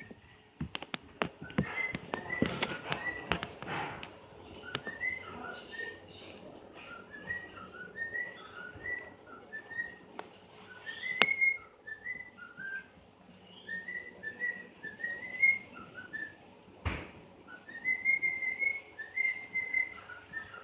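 Pet bird singing: phrases of short, clear whistled notes, some rising and some falling. Several sharp clicks come in the first few seconds, and a single knock comes about 17 seconds in.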